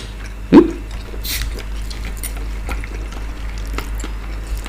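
Wet chewing and mouth sounds of a person eating, with one short loud vocal noise that quickly rises in pitch about half a second in.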